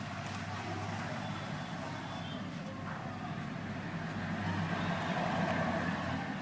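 Road traffic noise: a motor vehicle's low engine hum over a steady rumble, growing a little louder past the middle.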